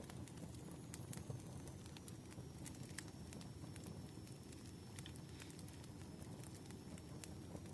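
Wood fire crackling, with irregular sharp pops over a low, steady rumble.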